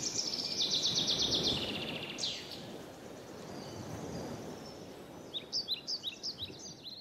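Small birds chirping: a fast high trill for about a second early on, then a run of short repeated chirps near the end, over a steady low background rush.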